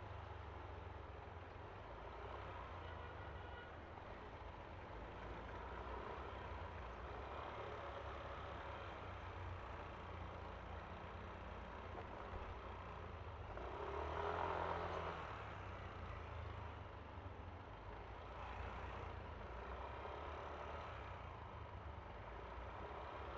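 Steady, fairly quiet riding noise from a Yamaha Aerox V3 scooter under way: low engine and road rumble with a haze of wind. About fourteen seconds in the noise briefly swells louder.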